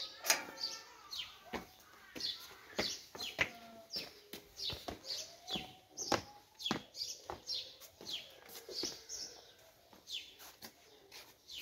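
Small birds chirping: an irregular run of short, sharp chirps, sometimes two or three a second.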